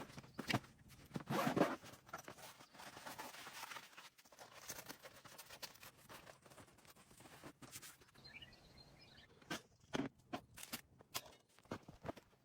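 Irregular knocks, clicks and crunching rustles, densest about a second in and again near the end, with faint chirps partway through.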